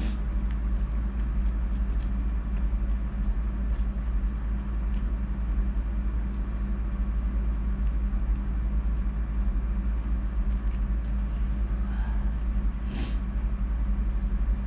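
Steady low hum of room background noise, with faint chewing ticks from someone eating fried squid and a short breathy sound about thirteen seconds in.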